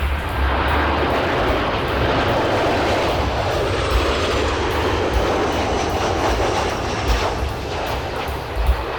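Boeing 737-800's CFM56-7B jet engines running, a steady rush with a faint falling whine high up partway through, while wind buffets the microphone with low rumbling thumps.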